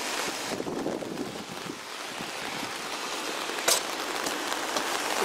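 Steady hiss of heavy typhoon rain falling, with a sharp click about three and a half seconds in.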